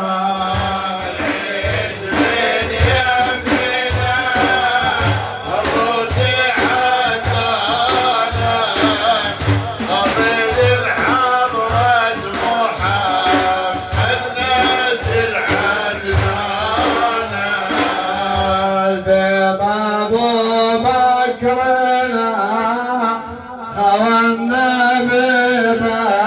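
Male singing of Iraqi Sufi praise song (madih) over a steady drum beat, the beat fading out about two-thirds of the way through.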